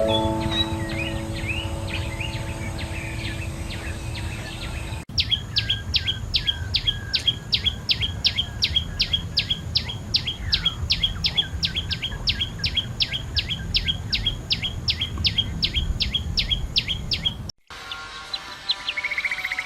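Bird calls in three abruptly cut segments. First, scattered chirps over a low rumbling noise. Then a single sharp, falling call repeated very evenly about three times a second for roughly twelve seconds, and near the end a short, fast trill.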